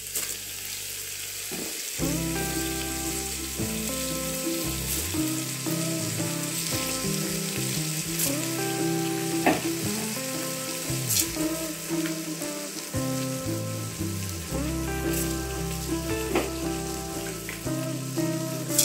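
Chicken masala sizzling in a cooking pot, a steady frying hiss. Background music with sustained, slowly changing notes comes in about two seconds in.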